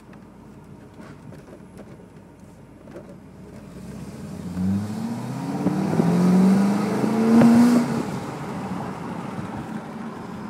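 Corvette V8 engine under hard acceleration, heard from inside the cabin: a quiet cruise for about four seconds, then the engine note climbs steeply in pitch and loudness, peaks around eight seconds in and eases back to a cruising note, with road and wind noise underneath.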